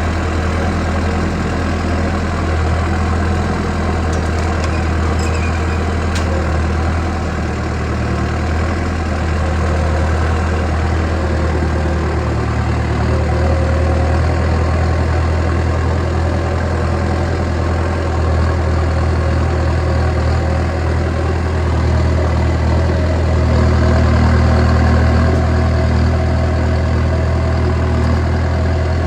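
Kubota M6240 tractor's diesel engine running steadily with a deep hum while the tractor travels. The engine note rises a little about twelve seconds in and again near twenty-three seconds.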